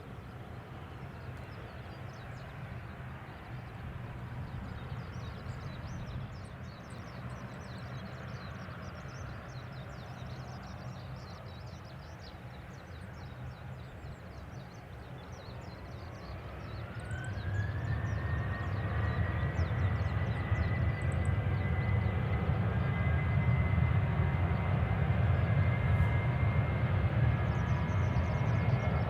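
Jet aircraft engine running with a steady low rumble. About halfway through, its whine rises in pitch over a few seconds and then holds high as the engine gets louder, as when an engine spools up.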